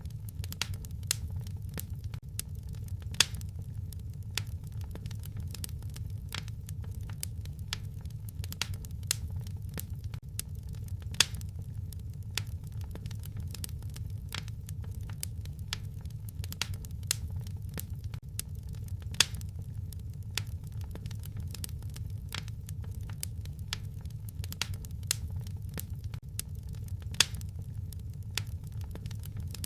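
Wood fire crackling in a fireplace: a steady low rumble of flames with frequent sharp pops and snaps, a few of them much louder than the rest.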